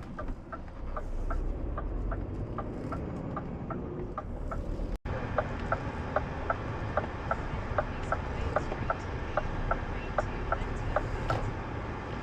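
Truck cab interior: a steady low engine and road rumble with the indicator or hazard-light relay ticking evenly, about two and a half ticks a second, louder after a brief dropout about five seconds in.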